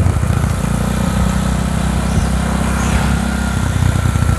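Motorcycle engine running steadily while riding down a long downhill stretch, a low rumble with little change in pitch.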